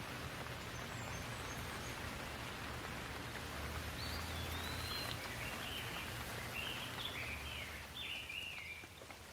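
Steady rain falling, an even hiss with a low rumble underneath. A bird sings a series of short chirping phrases over the rain in the second half.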